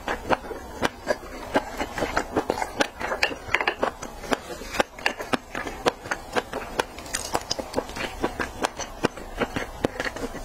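Close-miked chewing of raw seafood sashimi: a steady run of sharp wet mouth clicks, a few a second.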